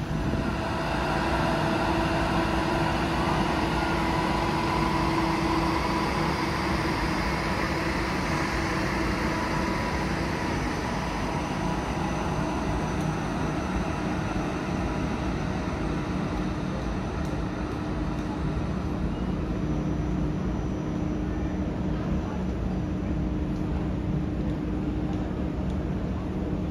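A train at a station: a steady hum made of several held tones over a low rumble, the higher tones fading after about ten seconds while the lowest tone carries on.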